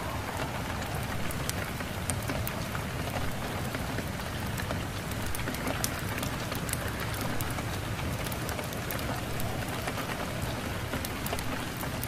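Steady rain with many small drops ticking on a surface.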